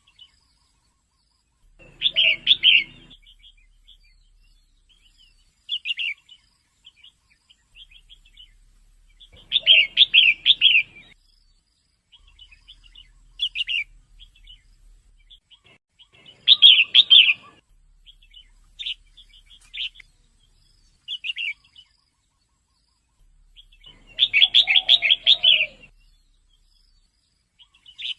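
Female red-whiskered bulbul calling: short bursts of quick chattering notes every few seconds, the longest about two seconds long near the end, with single short chirps in between.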